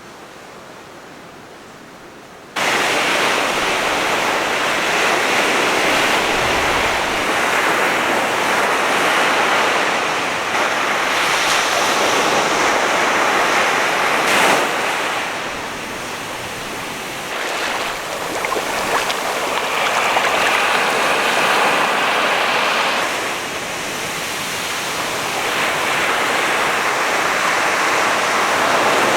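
Surf of a rough sea still stirred up after a typhoon: a continuous wash of breaking waves that swells and eases, cutting in suddenly about two and a half seconds in after a quiet start.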